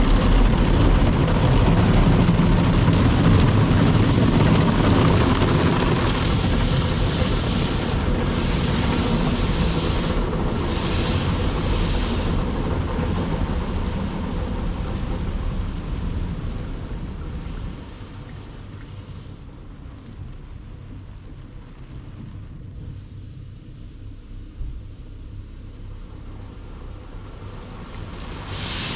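Daifuku Fabrica automatic car wash machine running through a wash cycle, with a steady rushing of water spray and machinery against the car. It is loud for the first half, with hissing surges between about six and twelve seconds in. It drops to a quieter hum a bit past halfway and picks up again at the very end.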